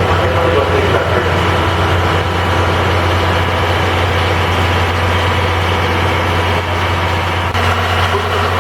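Steady low machinery hum of a locomotive-hauled passenger train standing at the platform before departure, with voices of people around it.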